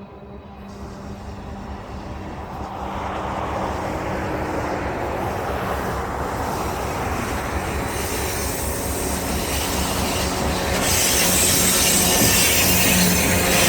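HO scale model diesel locomotive leading a short train, its engine sound running steadily with wheel and track rumble. It grows steadily louder as it approaches.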